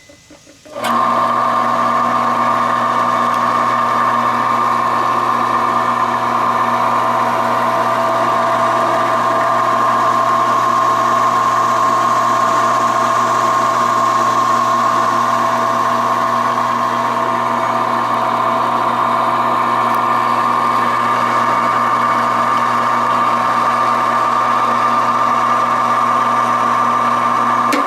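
Reliant 10-inch belt-driven mini lathe switched on about a second in and running steadily with an even motor hum and whine. It runs smoothly and is not noisy, a sign that its motor and bearings are sound.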